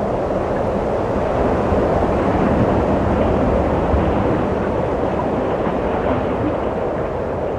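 Wind blowing steadily: a continuous low rushing noise with no gusts or distinct sounds standing out.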